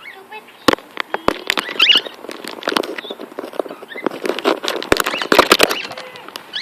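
Pet cockatiel making quick scratchy patter and clicks, with a few short chirps mixed in; the clicking is thickest about four to six seconds in.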